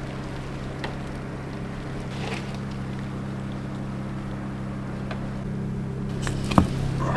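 Portable generator engine running at a steady pitch, with a few knocks near the end.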